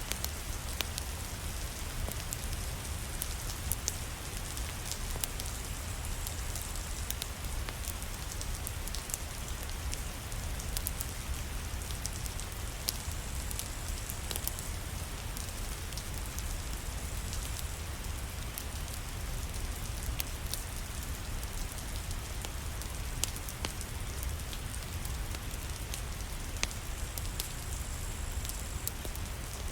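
Steady rain with a low rumble, mixed with scattered sharp crackles and pops from a wood fire in a fireplace.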